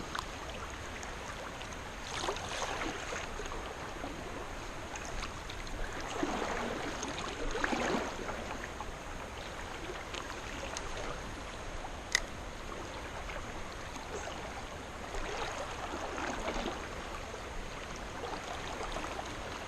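Creek water running steadily, swelling louder a few times, with a single sharp click about twelve seconds in.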